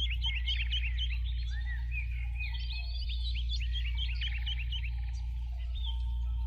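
Several birds chirping and trilling together, with many quick rising and falling notes and short buzzy trills overlapping, over a steady low hum.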